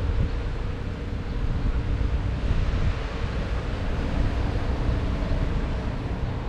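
Wind buffeting the microphone in a loud, uneven low rumble, with a faint steady hum underneath.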